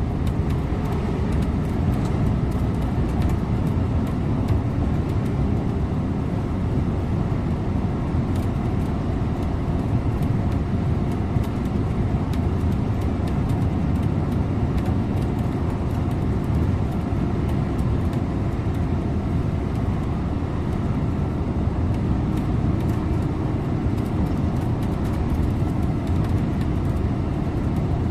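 Scania InterLink bus driving along at a steady pace, its engine and road noise making an even low rumble with a faint steady hum over it.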